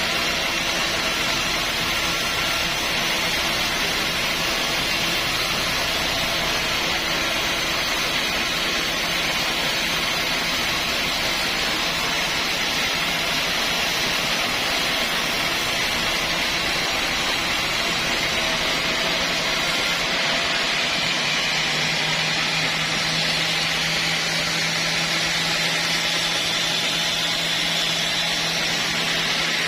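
Sawmill running with a loud, steady mechanical whirr; a low steady hum joins about two-thirds of the way in.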